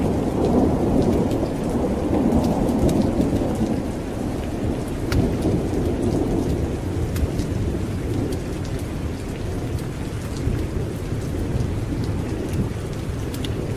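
Steady heavy rain with a long low rumble of thunder that rolls through the first half and eases off after about six seconds, with scattered sharp drop ticks.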